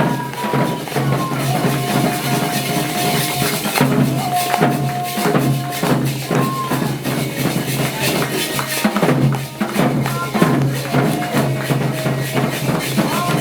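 Music with drums and shaken rattles keeping a dense, steady beat, with a few long held notes above it.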